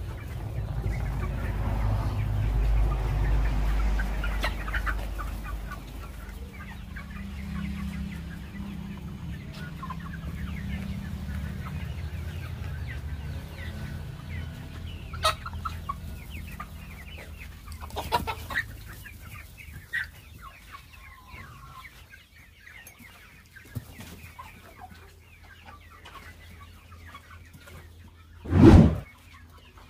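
A flock of 79-day-old Kaveri chickens clucking and calling, with many short overlapping calls. A low rumble sits under the first several seconds, and a single loud thump comes near the end.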